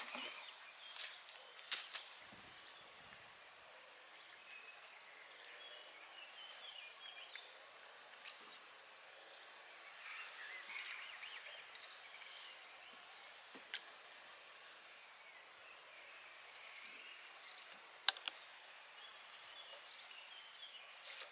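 Quiet rural outdoor ambience with faint bird chirps, broken by a few sharp clicks, the loudest about three-quarters of the way through.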